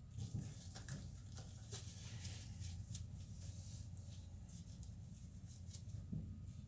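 Faint scattered clicks and light taps of small metal parts being handled on a 6.0 Powerstroke diesel fuel injector during disassembly, over a steady low hum.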